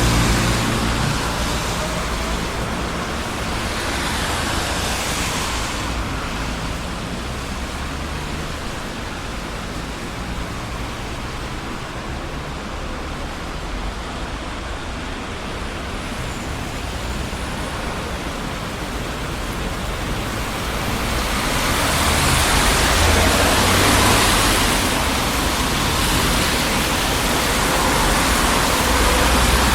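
Steady city road traffic noise from a busy street: a constant hiss of tyres and engines, with vehicles passing by and swelling louder early on and again from about two-thirds through.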